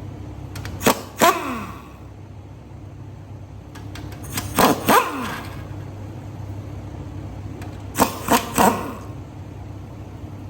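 Workshop work on a partly stripped V8 engine: three groups of two or three sharp metal knocks, each trailing off in a short falling whir, over a steady low hum.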